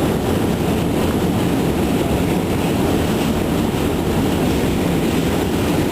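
Subway train running over the Manhattan Bridge, heard from inside the car: a steady, loud rumble and rattle of wheels on the bridge tracks.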